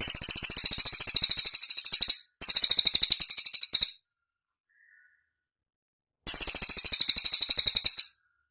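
Cililin bird singing: three bursts of rapid, very high-pitched repeated notes, about a dozen a second. The first two run almost back to back, and the third follows after a pause of about two seconds.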